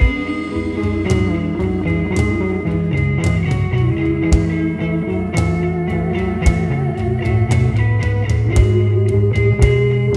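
Psychedelic rock band playing live in an instrumental passage: guitar over a steady bass line, with regular drum-kit and cymbal hits.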